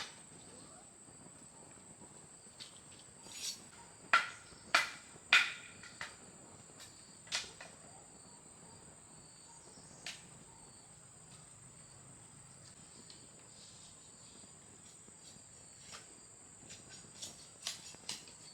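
Crickets or similar insects chirping in a steady high-pitched drone, with scattered sharp knocks and clicks from handling things, several close together about four to five seconds in.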